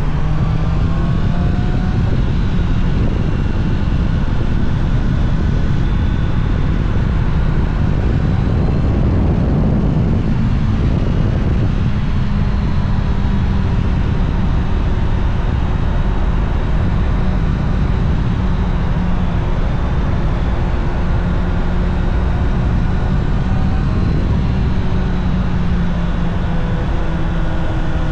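Honda CBR650R's inline-four engine running on the move, with heavy wind rush; the engine pitch climbs near the start, dips around ten seconds in, and climbs again near the end as the bike accelerates.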